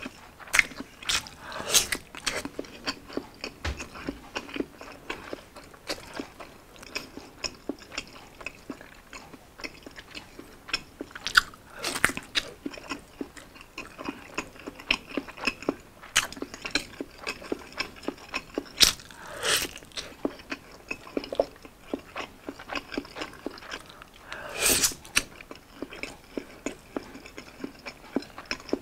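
Close-up biting and chewing of a thick slice of fried Spam: a steady run of short, wet mouth clicks, with a few louder bites spaced through it.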